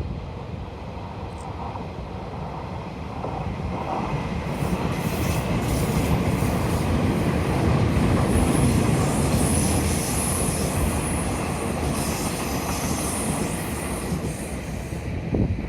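Taiwan Railway Puyuma tilting express (TEMU2000 electric multiple unit) running past on a curve. Its rumble builds to a peak about halfway through and then eases, while a high, thin squeal from the wheels runs through the middle.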